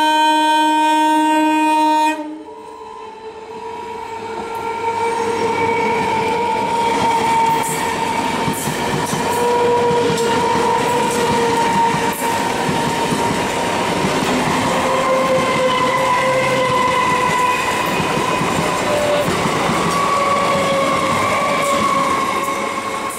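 Electric multiple unit train's horn sounding one steady blast that cuts off about two seconds in. Then an EMU train running past close by, wheels clattering over the rail joints under a steady whine.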